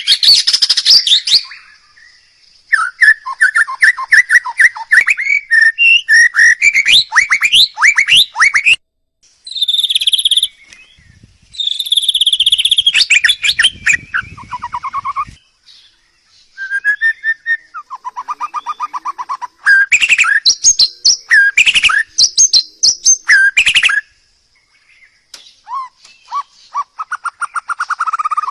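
A songbird singing loud, varied phrases of clear whistles, fast trills and chattering notes, in bursts with short pauses between them.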